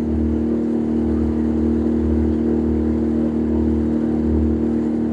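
A boat's engine running steadily, a constant hum with a low throb that swells and fades about once a second.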